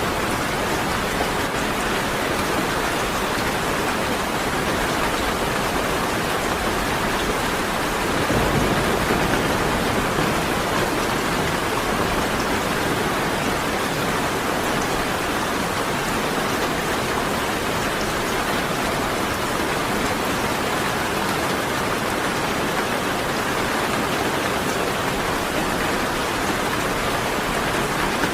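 Steady heavy rain falling, an even hiss throughout, with a low rumble of thunder swelling briefly about eight seconds in.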